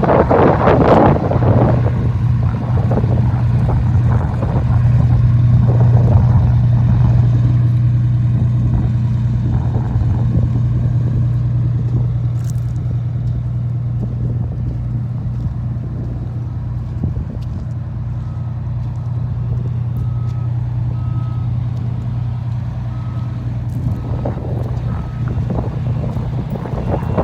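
Pierce Arrow pumper fire engine's diesel engine running steadily at idle. A faint beeper sounds short, even beeps about once a second in the last third.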